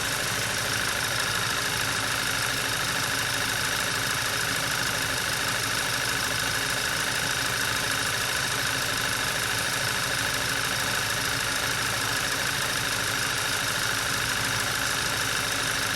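2014 Audi A4 2.0T's turbocharged four-cylinder engine idling steadily during warm-up after a cold start. It is running smoothly, with little shake.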